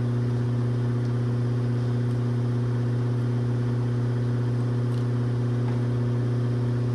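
A machine running with a steady low hum and overtones, unchanging in pitch and level.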